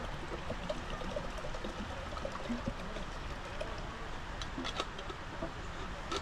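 Water running and trickling steadily, with many small bubbling blips and a few light clicks.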